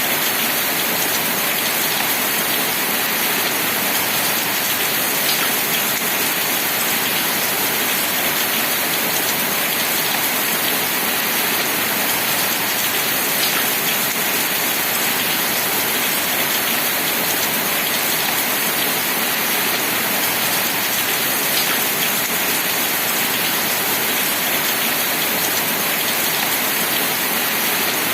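Steady rain falling, an even hiss with a few louder single drops standing out now and then.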